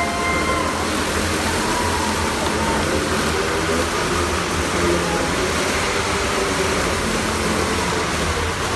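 Engines of a vintage motorcycle and a small kart running steadily as both circle the wooden Wall of Death drum.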